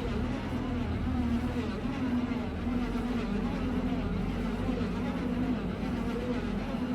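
A.K.M Koman 500 silage packing machine running, a steady machine hum with a low, slightly wavering tone.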